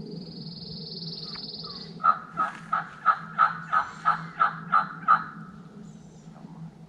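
A run of about ten turkey yelps, evenly spaced at roughly three a second, starting about two seconds in. Before them comes a high, buzzy trill lasting about two seconds.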